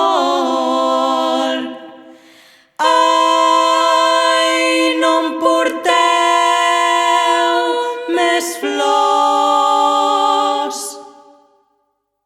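A cappella voices singing long held chords in harmony, without words. The first chord fades out about two seconds in. After a brief pause a new held chord begins, shifts a couple of times, and then fades out near the end.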